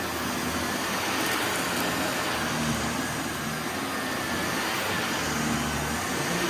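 Vacuum cleaner running steadily with a faint high whine, pulling dirt out of a heavily soiled carpet.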